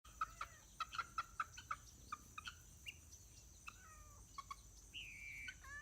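Farmyard poultry calling: a quick run of short, sharp clucks and chirps, then a longer call that falls in pitch about five seconds in.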